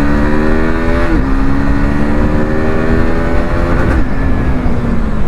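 KTM RC 390's single-cylinder engine accelerating under way, its pitch climbing and dropping sharply on an upshift about a second in, then climbing slowly to a second upshift about four seconds in.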